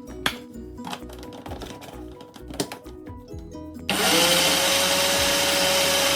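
Background music, then about four seconds in an electric blender switches on loud, its motor whine rising quickly and then holding steady as it grinds oats into oat flour.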